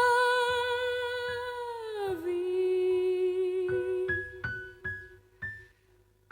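A woman's voice holds a long sung note with vibrato, sliding down to a lower held note about two seconds in, over piano. A few soft, high piano notes follow one by one, and the music fades near the end.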